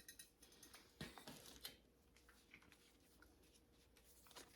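Near silence: room tone with a faint steady hum, and a few faint clicks and rustles of objects being handled in the first second and a half.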